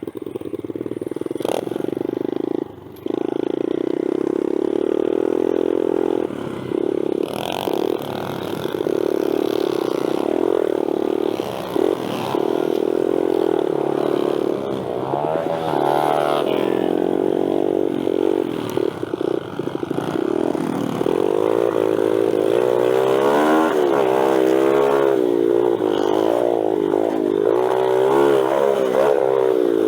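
X-Pro Storm 125cc pit bike's single-cylinder four-stroke engine running as the bike is ridden slowly around a dirt track, its revs rising and falling repeatedly with the throttle. The engine note briefly drops out about three seconds in.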